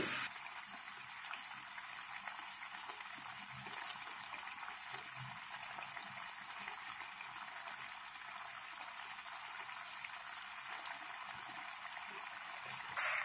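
Kaleji (liver pieces) frying in its yogurt-and-spice gravy in a pan, making a steady sizzle with fine crackling as it is browned (bhuna) until its colour changes.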